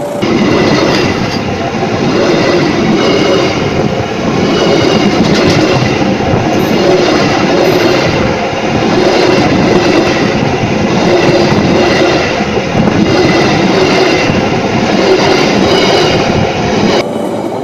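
The coaches of a passing passenger train go by at close range: loud wheel-on-rail rumble with a rhythmic clatter about once a second and intermittent high whining tones from the wheels. The sound drops away abruptly near the end.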